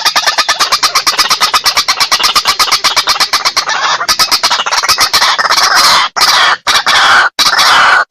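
White-breasted waterhen calling, as used on a bird-lure track: a rapid, even series of clucking notes, about ten a second. After about four seconds it changes to louder, harsh croaking calls with falling notes, broken by brief pauses.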